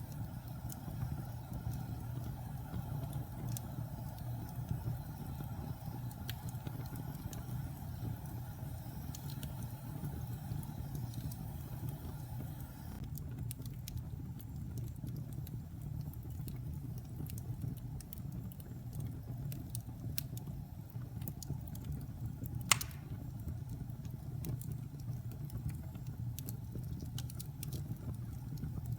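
Fire burning in a fireplace: a steady low rumble of flames with scattered small crackles, and one sharp, loud pop about two-thirds of the way through.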